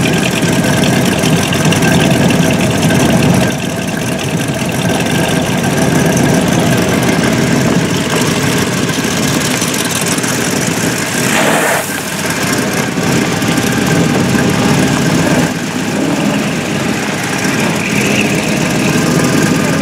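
Hot rod engines running rough and low at idle and pulling away on gravel, among them a supercharged V8 T-bucket, with a brief louder burst a little past halfway.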